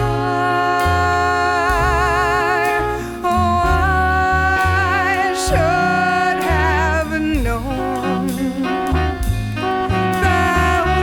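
Swing jazz band playing an instrumental break: a horn carries the melody in long notes with wide vibrato over a bass line and drums.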